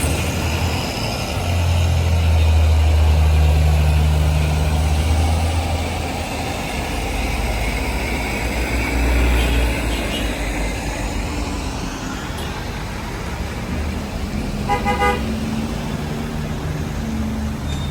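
Vehicle engines running in slow, stuck traffic, with a low drone that is loudest in the first few seconds. About fifteen seconds in, a horn gives a quick burst of short toots.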